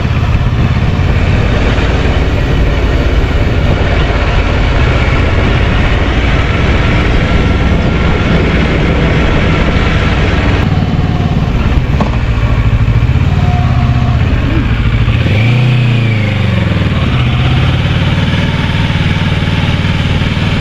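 Kawasaki Versys 650's parallel-twin engine running steadily as the motorcycle is ridden, with a brief rise and fall in pitch about fifteen seconds in.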